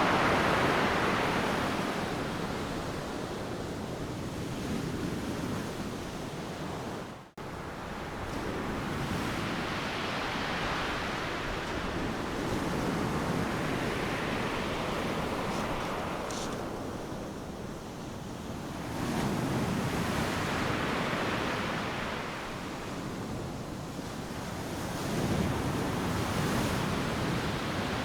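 Ocean surf breaking on a sandy beach: a continuous wash of water that swells and falls as waves come in, with stronger surges about two-thirds of the way through and near the end. There is a brief, sudden gap in the sound about seven seconds in.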